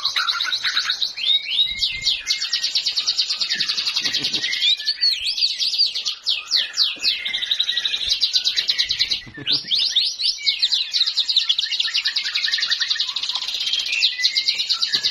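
A murai, a Copsychus songbird, singing a long, continuous song of rapid high trills mixed with swooping whistled notes, with a short pause about nine seconds in.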